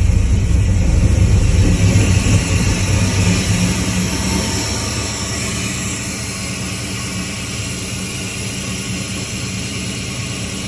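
LS V8 engine in a 1972 Chevelle running on a cold start, louder at first and settling lower about five seconds in.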